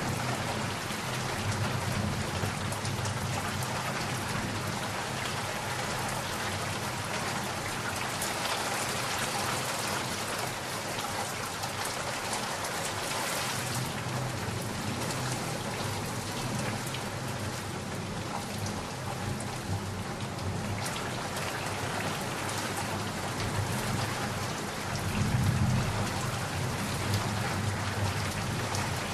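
Steady rain falling, with low thunder rumbling near the start and again about 25 seconds in.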